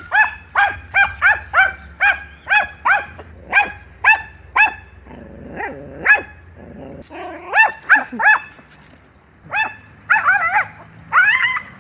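An animal giving rapid, short, high-pitched calls, about two to three a second. They pause around the middle and come back as wavering calls near the end.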